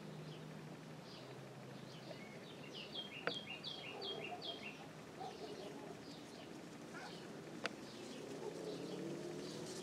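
Wild birds chirping and calling at a wetland, with a quick run of about six descending notes near the middle. Two sharp clicks stand out, over a low steady rumble.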